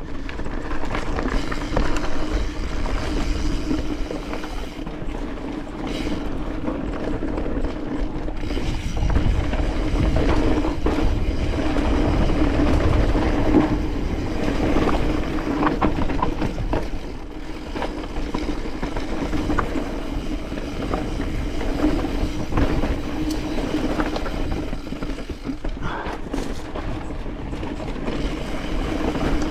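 Mountain bike descending a rocky trail: tyres rumbling over rock and dirt, the frame and chain rattling with frequent clicks and knocks, and the rear hub's freewheel ratchet ticking while coasting.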